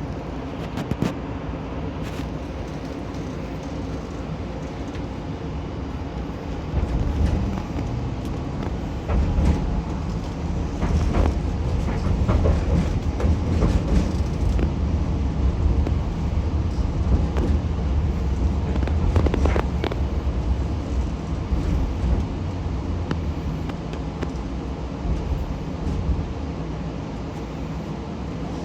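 Hiroden 1000 series low-floor tram (Green Mover LEX) with a Toyo Denki IGBT inverter drive, running between stops: a steady motor and rolling rumble with occasional sharp clicks from the wheels. It grows louder about a quarter of the way in and eases off again near the end.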